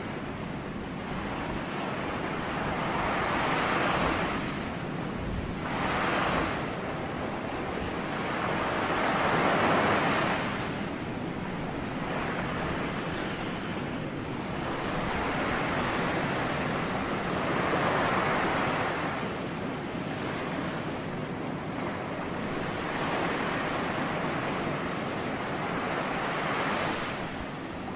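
Ocean waves breaking and washing up on a shore, each swelling and fading over a few seconds.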